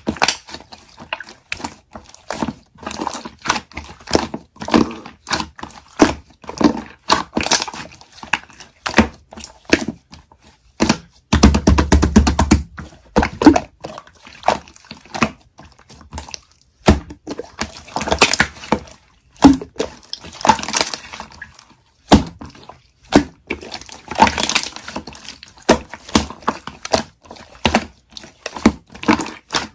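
Rapid, irregular crackling and clicking of something handled close to the microphone, with a denser, louder run of crackles about eleven to thirteen seconds in.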